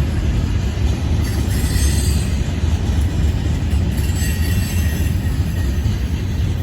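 Freight cars of a passing train rolling by: a steady low rumble of steel wheels on rail. Faint high wheel squeals rise twice, about one and a half seconds in and again about four seconds in.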